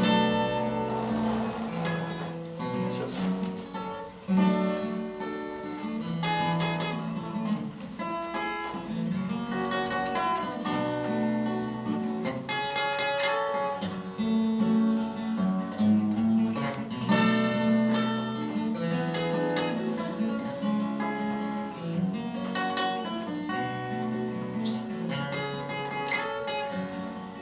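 Acoustic guitar playing an instrumental introduction to a romance, with plucked notes and strummed chords.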